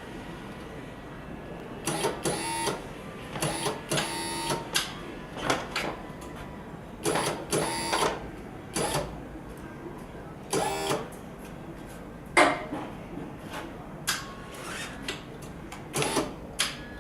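Electric lift truck and drum rotator being operated: a series of short bursts of mechanical clatter and whirring, with a sharp clack about twelve seconds in.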